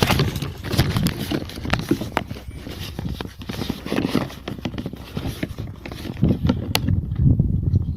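Irregular thuds, knocks and squelches of a motorcycle being hauled and rocked through deep mud, with no engine running.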